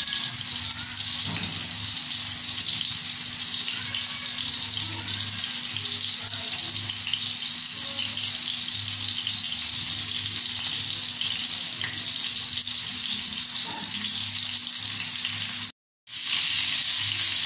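Minced-beef seekh kababs shallow-frying in hot oil in a pan: a steady sizzle and crackle. The sound cuts out for a moment near the end, then resumes.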